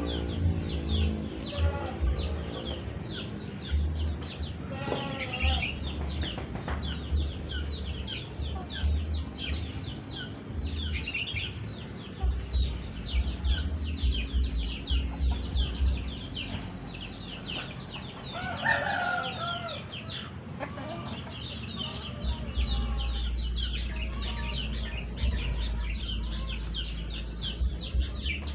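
Many small birds chirping rapidly and without pause, with a chicken clucking among them, loudest about 18 to 20 seconds in. A low rumble comes and goes underneath.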